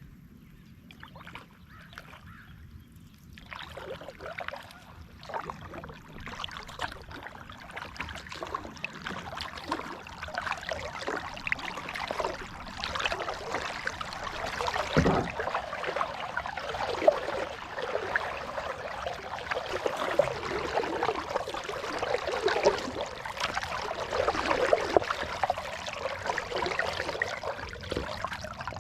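Water splashing and trickling around a kayak: a busy, irregular patter of splashes and drips of the kind a paddle makes in the water. It starts about three and a half seconds in and gets busier toward the end.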